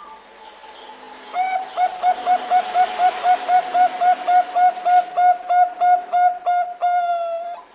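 Zebra dove (Bangkok-type perkutut) calling: a fast run of short, evenly spaced cooing notes, about four a second, that closes with one longer drawn-out note near the end.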